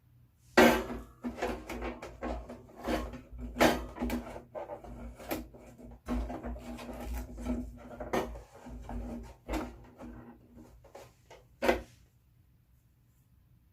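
Irregular knocks, scrapes and clatter of things being handled, with a sharp knock near the end, then the sounds stop shortly before the end.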